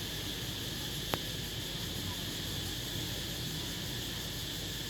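A steady chorus of crickets, a continuous high-pitched trill with no pauses, with a single sharp click about a second in.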